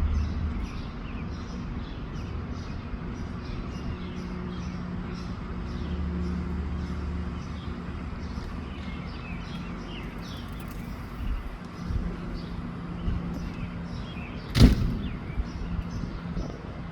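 Outdoor ambience: many short bird chirps over a low rumble and a steady hum. A single sharp knock, the loudest sound, comes near the end.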